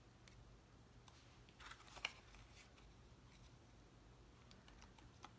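Mostly near silence with quiet cardstock handling: paper pieces rustle briefly about a second and a half in, ending in one sharp tap.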